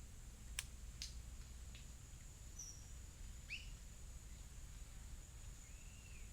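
Faint outdoor bird calls: a few short chirps, including a quick downward-swept chirp about midway and an arching whistled note near the end, over a steady high-pitched whine and low background rumble. Two sharp clicks come about half a second and a second in.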